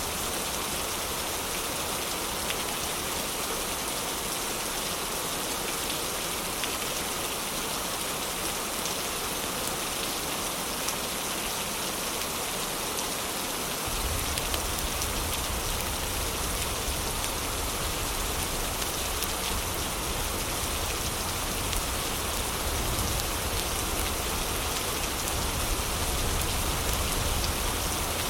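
Heavy rain falling steadily, an even hiss of drops. About halfway through a deep low rumble joins in underneath and stays.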